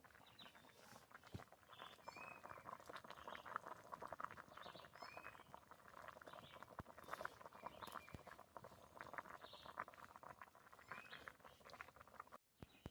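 Faint, dense, irregular crackling and popping from food cooking over a campfire.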